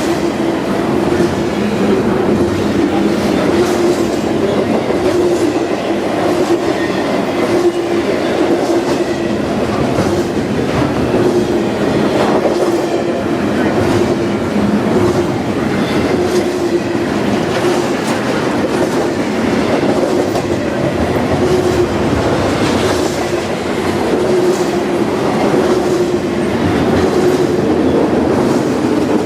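Freight train cars rolling past, with a steady rumble and an irregular clickety-clack of wheels over the rail joints.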